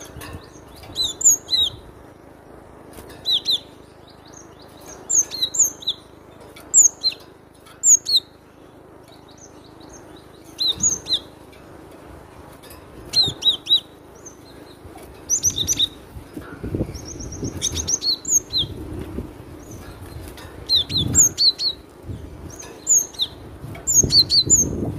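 Cinereous tit (glatik batu) calling loudly: sharp, high, whistled notes in quick groups of two or three, repeated every second or two, with a brief fast trill about two thirds of the way through.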